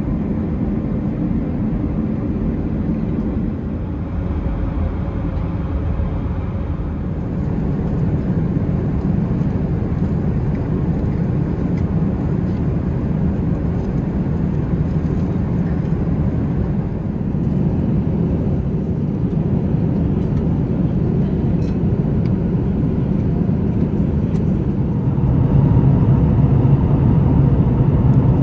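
Airbus A380 cabin noise in flight: a steady low rumble and rush of air and engines, swelling slightly near the end.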